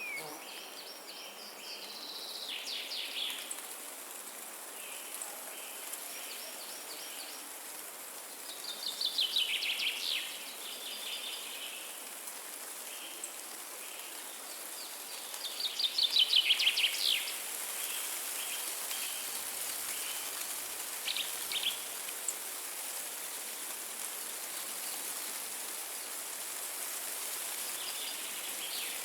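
Forest ambience: birds singing bursts of rapid trills, loudest twice in the middle, over a steady hiss of wind in the trees.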